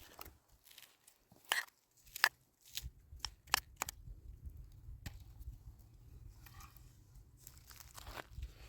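Wild plants being torn and snapped off by hand: a handful of sharp tearing snaps in the first four seconds, with a low rumble coming in about three seconds in and staying.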